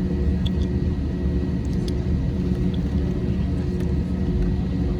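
Airbus A320 cabin noise heard from a rear window seat: a steady low rumble of engines and airflow, with a faint steady high whine.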